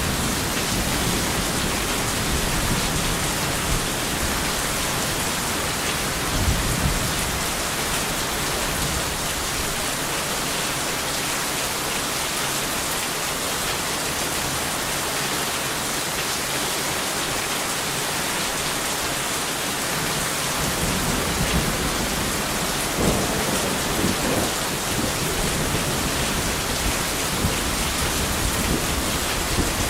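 Steady heavy rain with thunder rumbling low near the start, briefly again a few seconds in, and through the second half.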